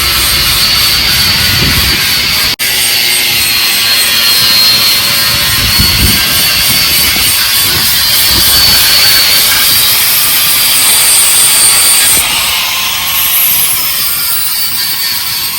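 Turbocharged tractor diesel engine running, with a steady high-pitched turbo whine over the engine noise.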